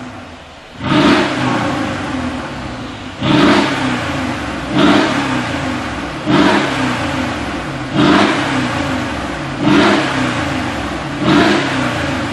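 Mercedes G63 Brabus V8 revved through its tuned exhaust: seven quick throttle blips about every one and a half seconds, each a sharp rise that falls back toward idle.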